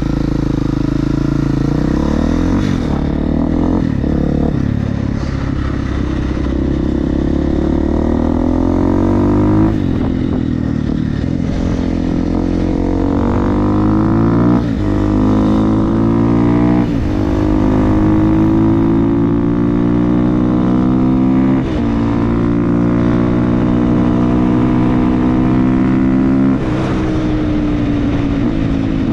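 Supermoto motorcycle engine with an FMF exhaust accelerating hard through the gears. The pitch climbs steadily and then drops sharply at each upshift, about six shifts in all.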